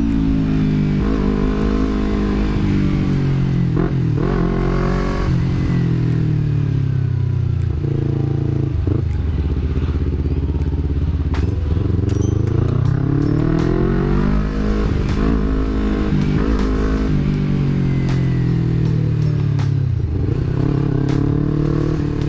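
Yamaha R25 parallel-twin engine breathing through a Villan MV1 aftermarket exhaust while riding. The engine note climbs in pitch and drops back several times as the bike accelerates and shifts gears. The exhaust note is deep and bassy.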